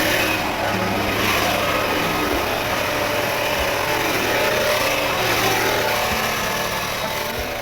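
Small petrol engine running steadily, easing off slightly near the end.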